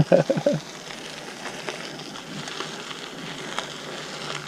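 Gravel bike tyres crackling steadily over a gravel trail, with scattered small ticks. A brief voice is heard at the very start.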